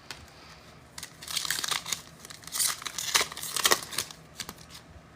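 Foil wrapper of a football trading card pack crinkling and tearing as it is ripped open, in a string of short rustling bursts.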